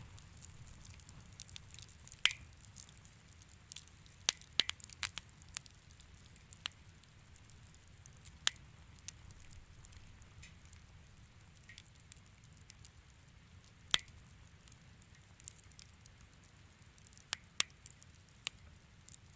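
Wood fire crackling in a fireplace: irregular sharp pops and snaps, a handful of them louder, over a low steady rumble.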